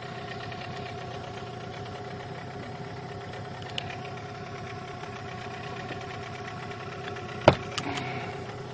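New boat outboard motor running steadily at low speed during its break-in, with an even, unchanging tone. A single sharp knock stands out about three-quarters of the way through, followed by a lighter tap.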